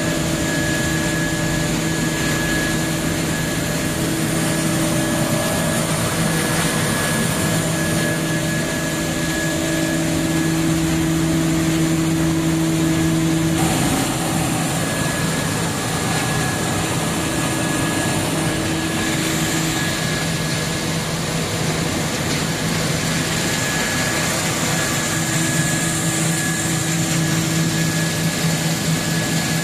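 Steady mechanical drone with a constant low hum and a faint high whine running under it; its texture shifts slightly about fourteen seconds in.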